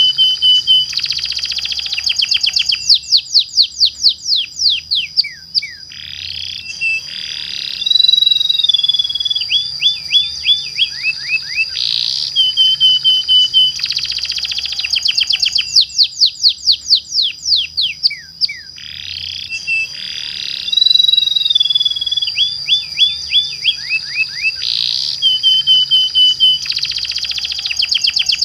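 Domestic canary singing long rolling trills, with fast chopped sweeps and held whistled notes over a constant high tone. The same song sequence repeats about every twelve seconds.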